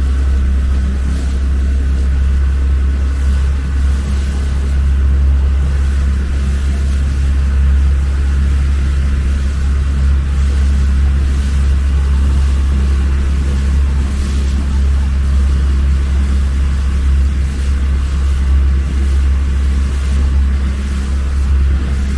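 Small boat's motor running steadily, a constant low drone with no change in pace.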